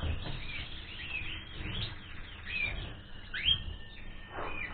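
Canaries chirping and calling: a string of short, quick pitched notes and little up-and-down glides, one after another, over a low rumble.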